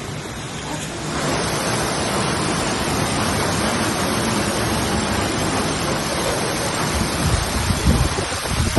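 Floodwater rushing and pouring in a steady, strong flow that grows louder about a second in. Low rumbling bumps come near the end.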